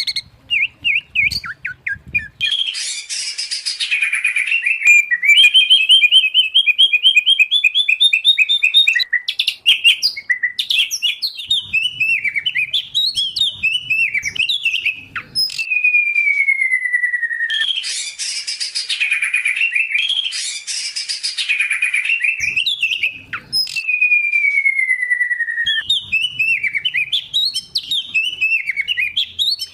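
Songbirds singing a loud, varied song of rapid trills, chattering runs and long falling whistles, broken by harsh rasping bursts.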